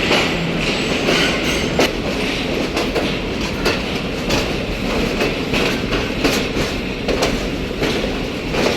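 Passenger train running, its wheels clattering over the rail joints in irregular clicks over a steady rumble, heard from inside the carriage as the train pulls away.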